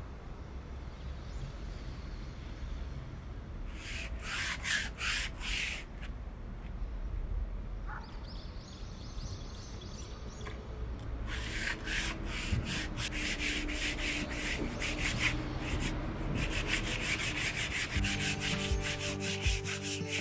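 Sandpaper rubbed by hand along a wooden batten in back-and-forth strokes. The strokes come in spells: a handful, a pause, then a longer, quicker run.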